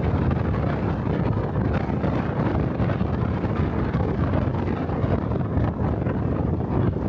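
Wind buffeting the microphone of a camera on a moving motorcycle, a steady low rumble with the motorcycle's engine and road noise running underneath.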